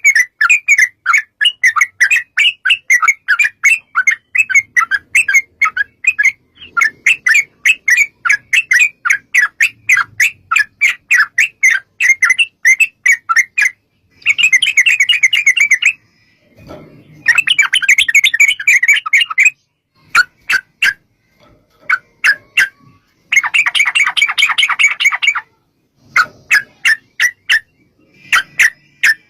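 Yellow-vented bulbul (trucukan) singing: long runs of quick, loud chattering notes, about five a second, broken three times by dense rattling trills of two seconds or so, then sparser single notes toward the end.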